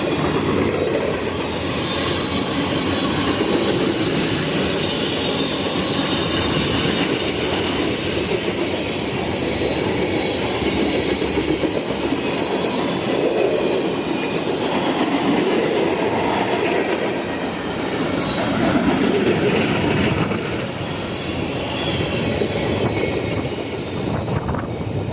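Train rolling past close by, its cars clicking over the rail joints, with a faint high squeal from the wheels.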